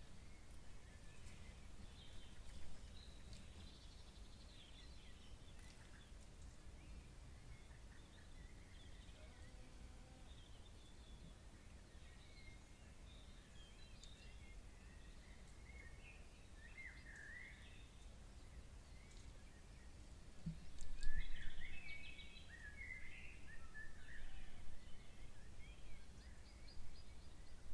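Birds calling in short, scattered chirps over a low steady rumble. The calls grow busier and louder about three-quarters of the way in.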